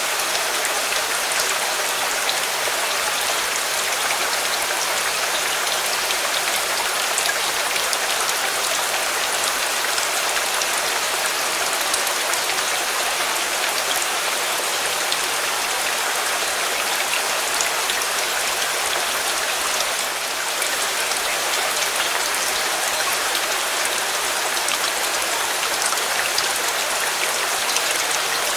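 Steady, heavy rainfall: a constant hiss of rain with many small drop ticks on a surface, unchanging throughout.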